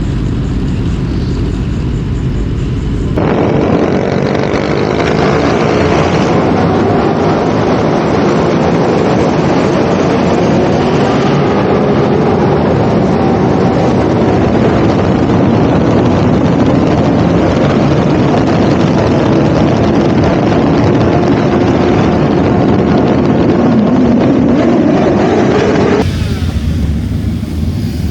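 Motorcycle engine running on the move, its pitch gliding up and down over a steady rush of noise. The sound changes abruptly twice, about three seconds in and near the end.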